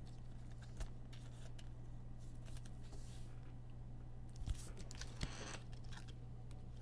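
Trading cards being handled, with a few soft clicks and a brief rustle, over a steady low electrical hum.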